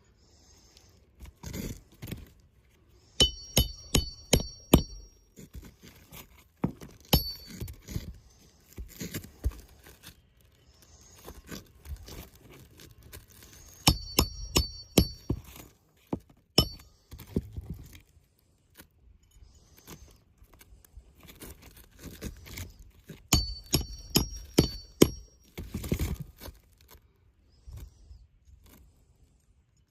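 Sharp metal-on-metal taps in quick runs of four to six, each with a short ring, with softer knocks and scraping between, typical of hammer work on a shingle roof.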